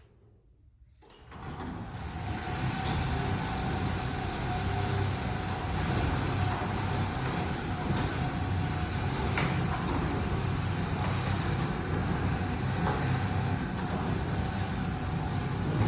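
Electric garage door opener running, its motor humming steadily as it drives the door along its tracks, starting about a second in.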